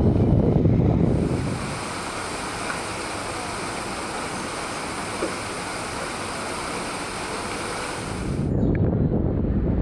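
Sea surf washing in, a steady hiss that starts about a second in and cuts off suddenly near the end. Wind buffets the microphone at the start and again after the surf stops.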